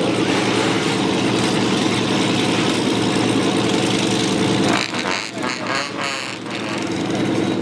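A vehicle engine idling steadily, with a brief dip and change in the sound about five seconds in.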